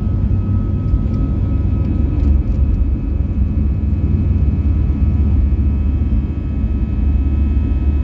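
Steady cabin noise inside an Airbus A320-214 with CFM56-5B engines: a low, even drone of engines and airflow with faint steady high tones above it.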